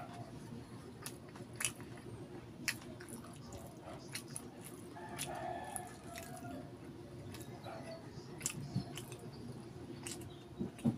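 Close-up chewing of a mouthful of food with the mouth closed: irregular wet clicks and smacks every half second or so, over a steady low background noise.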